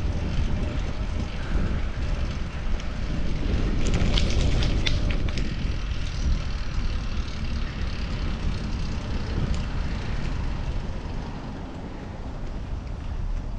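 Wind buffeting the microphone and road rumble from a fixed-gear bicycle being ridden through city streets, with a short cluster of sharp clicks about four seconds in.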